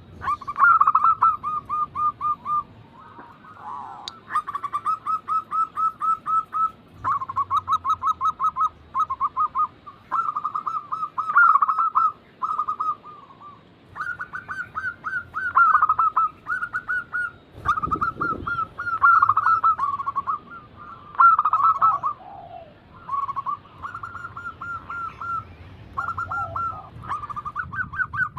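Zebra doves (perkutut) cooing: run after run of rapid staccato coo notes, with several birds' runs overlapping at slightly different pitches.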